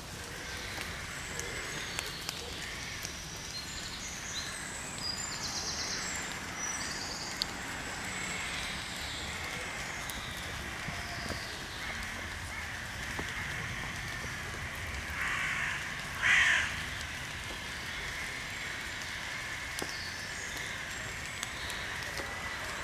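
Birds chirping, with one louder call in two parts about two-thirds of the way through.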